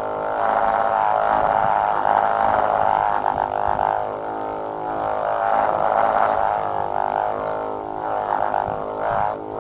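Humming-tape bird-scare line vibrating in the wind: a buzzing drone with many overtones that swells and fades every second or two.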